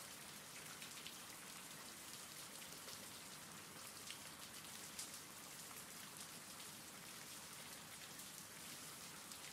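Faint, steady rain ambience from a rain-sounds background track: an even hiss of falling rain with light patter of drops.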